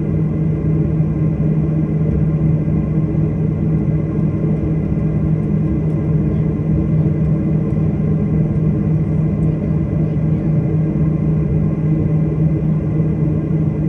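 Steady drone of an airliner's engines heard inside the passenger cabin: an even rumble with a constant low hum, unchanging throughout.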